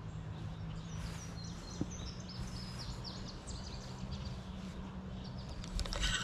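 A small songbird singing a rapid run of short high chirps from about a second in, over a steady low hum of road traffic. A few sharp clicks come near the end.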